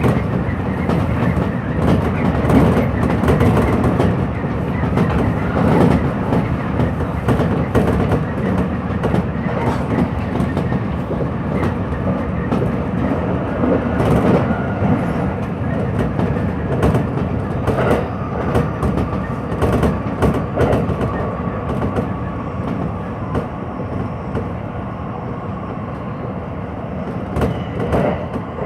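Hanshin Electric Railway train running, heard from inside the front car: a steady rumble with the repeated click of wheels over rail joints. About two-thirds in, a faint steady whine joins and the running grows slightly quieter.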